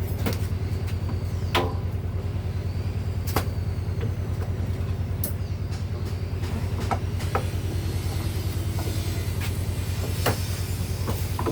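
A steady low machine hum with a fast, even pulse, with scattered sharp clicks and knocks over it.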